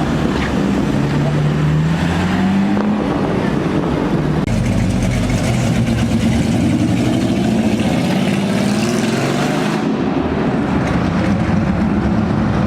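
A car engine revving, its pitch climbing in several rising sweeps as it accelerates, over street traffic noise.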